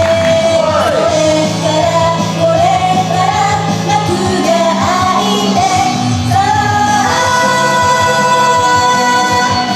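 J-pop idol song: a woman singing a melody over a pop backing track with a steady bass line.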